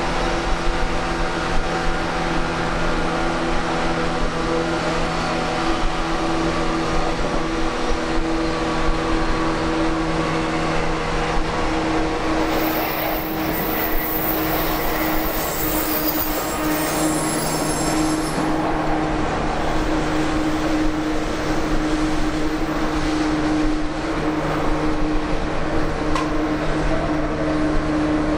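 Running noise heard inside a JR 185 series electric train at speed: a steady rumble of wheels on rails with a continuous, even hum of several tones. A faint high-pitched squeal comes in for a few seconds around the middle.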